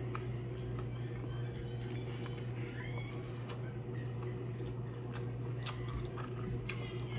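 Close-miked chewing of a taco with the mouth closed: soft wet mouth sounds with scattered small crunches and lip clicks, over a steady low hum.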